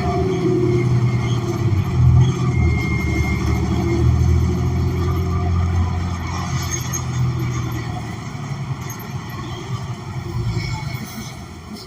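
A New Flyer XN40 city bus, heard from inside the cabin, with its Cummins Westport ISL G natural-gas engine running under way as a strong low rumble. The rumble eases off and grows quieter over the last few seconds.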